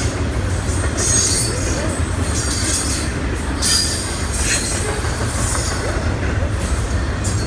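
BNSF double-stack container train's cars rolling past with a loud steady rumble, and high-pitched wheel squeal coming and going, strongest about a second in and again three to four seconds in.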